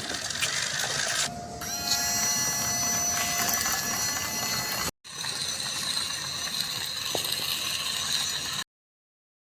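A small geared mechanism whirring and rattling with a steady whine. It is cut off abruptly about five seconds in, resumes at once, and stops dead about a second before the end.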